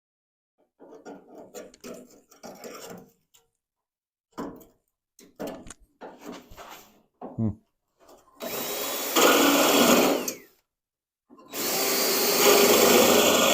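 Power drill running in two bursts on sheet metal, the first about two seconds long and the second starting a second later and running on, as spot welds in the quarter panel are drilled through. Scraping and knocking of handled metal and tools comes before the drill.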